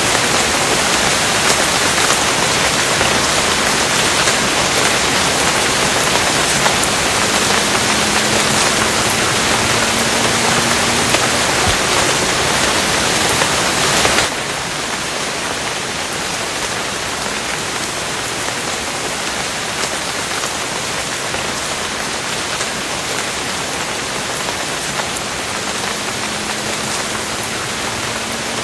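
Steady heavy rain hissing, a dense even patter; about halfway through it suddenly drops a little in level and turns duller. A faint low hum rises slightly in pitch twice under it.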